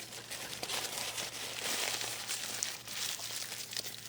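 Food wrapper crinkling as it is handled, a dense run of small crackles that swells in the middle and then eases off.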